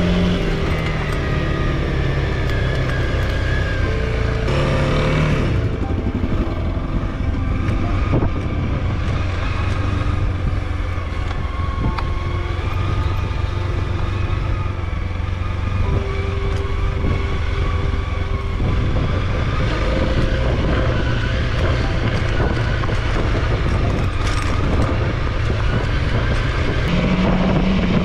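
Honda CRF300L trail bike's single-cylinder four-stroke engine running steadily while under way, its pitch rising and falling with the throttle.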